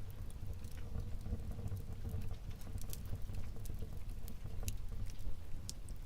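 Wood fire burning in a fireplace: a steady low rumble of the flames with irregular sharp crackles and pops, a few louder pops among them.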